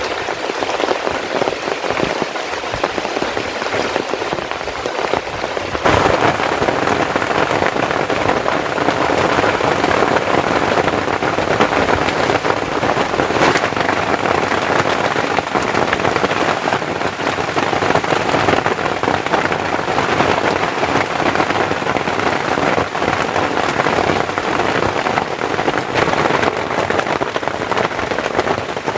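Heavy tropical rain pouring steadily, with dense patter of drops; the downpour grows louder and heavier about six seconds in.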